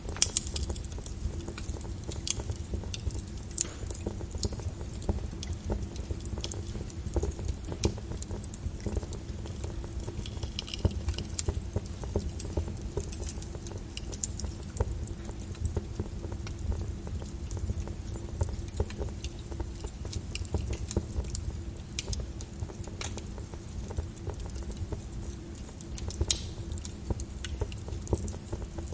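Wood fire in a fireplace crackling: irregular pops and snaps over a low, steady rumble of the burning fire, with a couple of sharper pops right at the start and again near the end.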